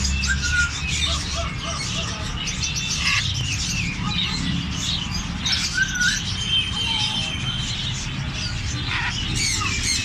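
Birds chirping and whistling, many short overlapping calls, over a steady low hum.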